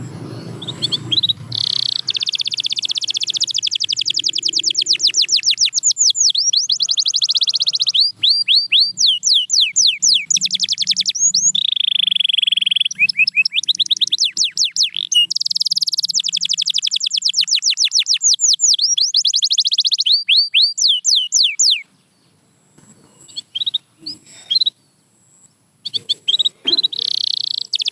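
Canary singing: a long run of fast trills and rapid repeated-note phrases. It breaks off about 22 seconds in, leaving a few scattered chirps, then starts up again near the end.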